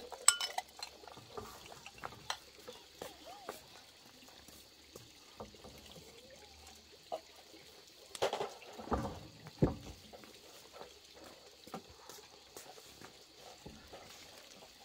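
Scattered clinks and knocks of dishes and eating utensils being handled. There is a sharp clink just after the start, then a cluster of knocks and dull thumps around eight to ten seconds in.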